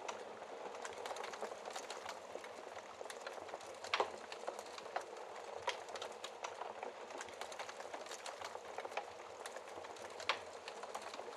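Campfire crackling: a steady hiss of burning with irregular sharp pops, a louder pop about four seconds in and another near the end.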